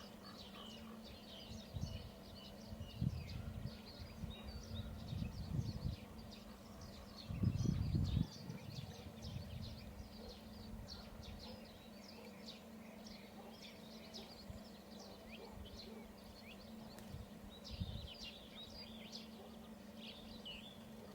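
Small birds chirping and twittering outdoors, many short calls throughout. Low rumbling bumps come and go through the first eight seconds, loudest around seven to eight seconds in, over a steady low hum.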